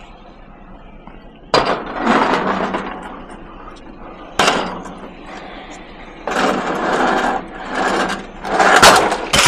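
A heavy metal gate being handled as scrap: sudden clanks, each followed by about a second of scraping and rattling, three times, then a run of louder knocking and scraping near the end.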